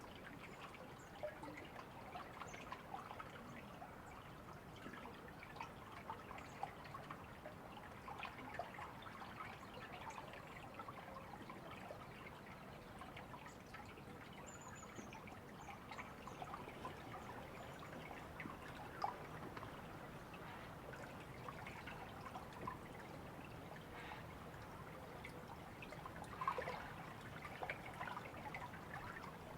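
Small stream running steadily, its water noise speckled with many small splashes, a slightly louder splash coming near the end.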